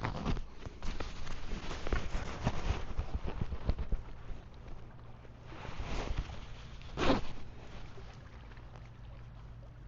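Rustling and clicking handling noises, with a sharp knock or rustle about seven seconds in, then a faint low steady hum.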